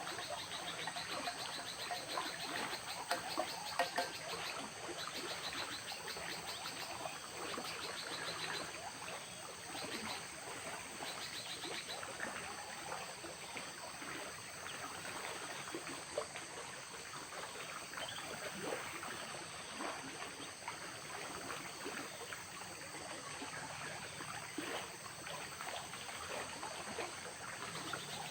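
Tropical forest ambience beside a river: running, trickling water under a steady high-pitched insect drone, with rapid ticking animal calls scattered through it.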